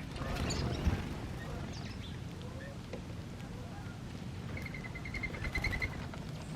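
Outdoor ambience with birds calling: scattered short chirps, then a quick trill of about ten rapid, evenly spaced notes about two-thirds of the way through.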